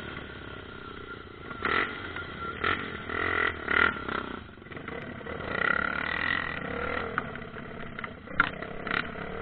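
Trail motorcycle engine running, swelling and easing off several times.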